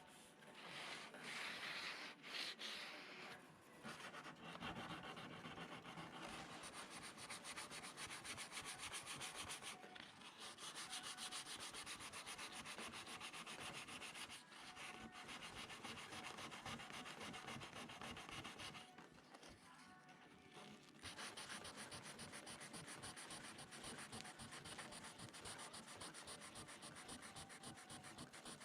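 Sandpaper scraping over a fibreglass (FRP) repair on a Prius aero bumper: a steady, rough rubbing that pauses briefly about nineteen seconds in, then resumes.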